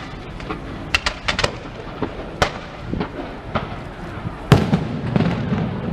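Aerial fireworks going off: a run of sharp bangs and cracks, several close together about a second in, with the loudest bang about four and a half seconds in followed by a low rumble.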